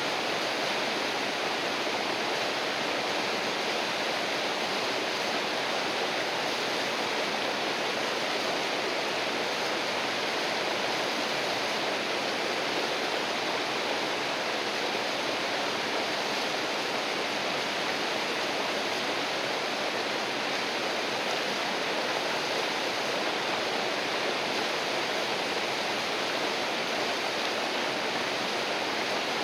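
River water flowing over rocks: a steady, even rushing with no let-up.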